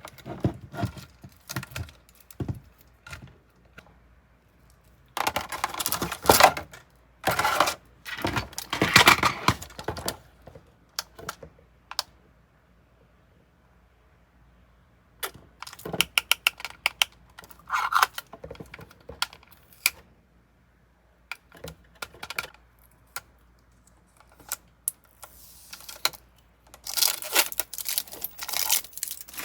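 Small plastic items and their packaging being handled: scattered sharp clicks and rattles, with several longer bursts of busier handling noise and quiet pauses between.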